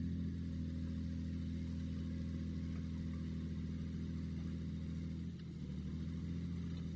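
Heavy diesel engine of a construction machine running steadily at a low, even speed, its note dropping slightly about five seconds in.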